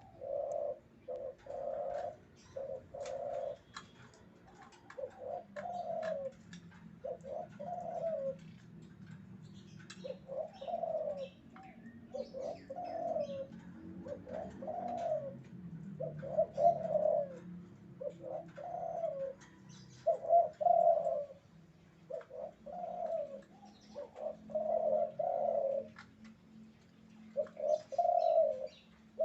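Male spotted dove (derkuku) in breeding condition cooing over and over, a steady run of short, low coos about one a second with brief pauses between phrases.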